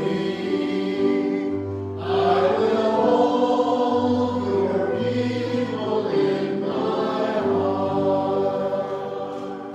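Voices singing a hymn together in sustained chords, over held low bass notes, with the final phrase dying away near the end.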